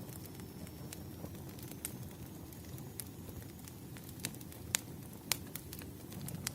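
Campfire crackling: a steady low rumble of burning wood with scattered sharp pops, the two strongest a little under five seconds in and just after five.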